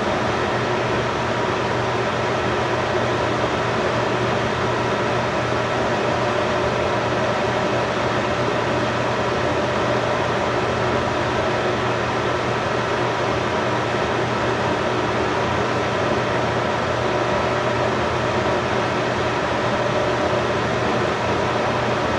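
Steady machine hum and hiss, like a fan or air-conditioning blower running, unchanging throughout.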